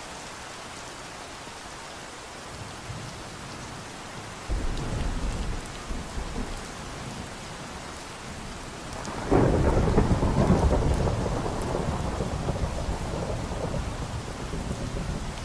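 Steady rain with thunder: a low rumble starts suddenly about a third of the way in, then a louder, sharper clap a little past halfway rolls on for several seconds before fading.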